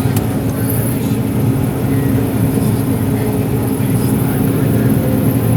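John Deere 9760 STS combine running steadily while harvesting corn, heard from inside the cab: a constant low machine hum with a high hiss over it.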